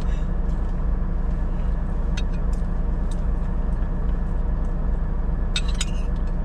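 Steady low drone of a semi-truck's diesel engine heard from inside the cab, with a few light clicks about two seconds in and a short cluster of them near the end.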